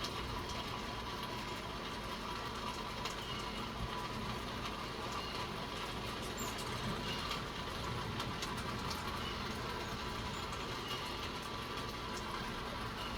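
Light rain falling outdoors: a steady soft hiss with scattered faint drips, and a few short high chirps now and then.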